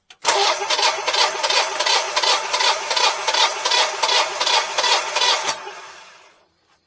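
Generac Guardian 4456 standby generator's engine being cranked by its starter on a manual start, turning over in even pulses of about three a second. The cranking stops suddenly after about five seconds and the engine spins down without catching: it has failed to start after its oil change.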